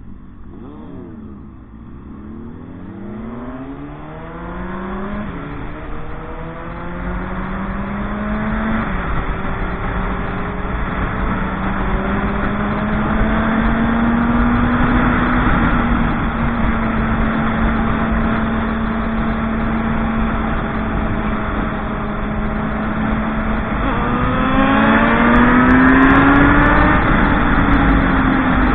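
Motorcycle engine pulling away, rising in pitch with two upshifts in the first nine seconds, then holding a steady pitch while cruising. It revs up again near the end before easing off.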